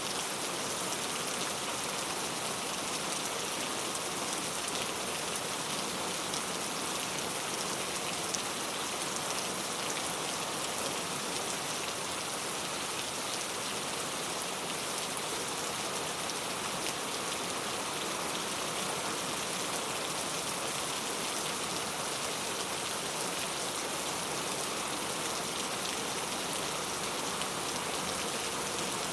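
Heavy rain falling steadily, a dense even hiss of drops pattering on hard surfaces.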